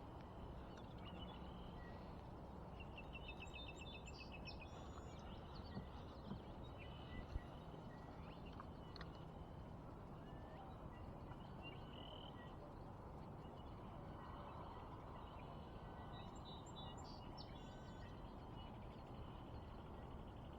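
Wild birds calling over a steady hush of outdoor background noise: a rapid trill about three seconds in and another cluster of calls about sixteen seconds in. A few faint sharp ticks sound around six to seven seconds.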